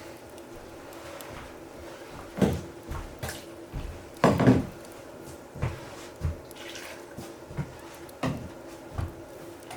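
A series of irregular knocks and clunks of things being handled, about ten in all, the loudest about four seconds in, over a steady low hum.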